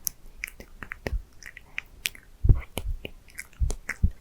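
Inaudible ASMR whispering close to the microphone: wet mouth and lip clicks, many short sharp ticks at an uneven pace, with a few soft low bumps of breath on the microphone.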